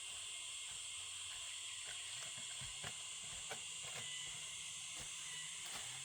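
Steady high-pitched insect chorus of forest crickets or cicadas, with a few light knocks.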